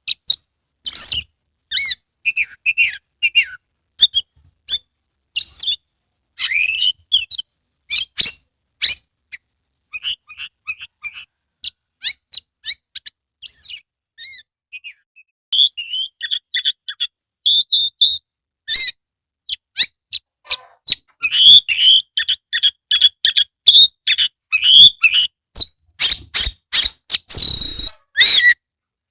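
Oriental magpie-robin (kacer) singing loudly: a varied string of sharp whistles, chirps and short trills with brief pauses. Over the last several seconds it becomes a dense, rapid run with a short harsh, rasping note near the end.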